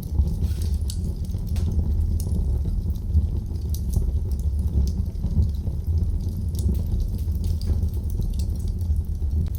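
Wood fire burning in a fireplace, crackling with frequent, irregular sharp pops over a steady low rumble of the flames.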